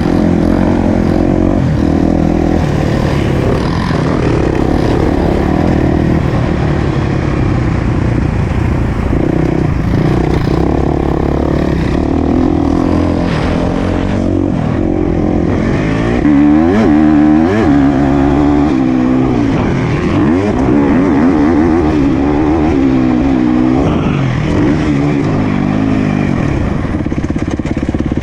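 Motocross dirt bike engine running hard, its revs rising and falling repeatedly as the throttle is worked, most clearly a little past the middle.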